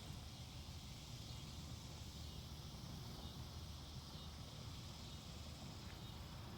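Faint, steady woodland ambience: a low rumble and an even high hiss, with a faint click about six seconds in.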